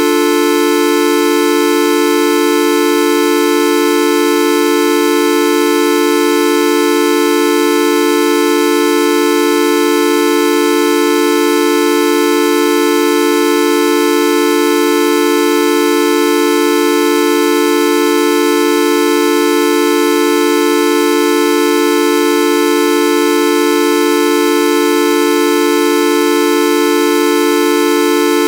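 The 'Videoup V1.2' sound effect: one steady pitched tone, rich in overtones, held without any change in pitch or loudness.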